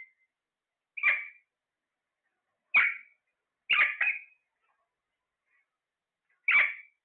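A parrot giving short, sharp squawks, four in all with gaps of one to three seconds, the third one doubled.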